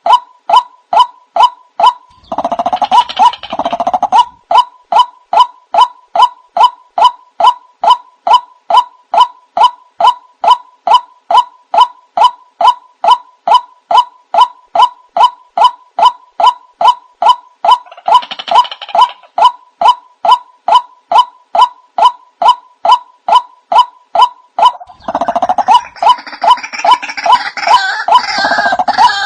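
White-breasted waterhen call played as a bird lure: a single note repeated about two and a half times a second. Louder, harsher croaking bursts come in about two seconds in, again past the middle, and for several seconds near the end.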